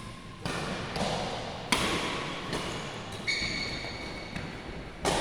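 Badminton rackets striking a shuttlecock in a rally: a string of sharp hits roughly a second apart, echoing in a large sports hall.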